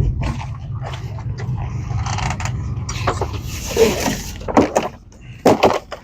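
Knocks and clatter of camp gear being handled over a steady low rumble, with a few louder knocks near the end.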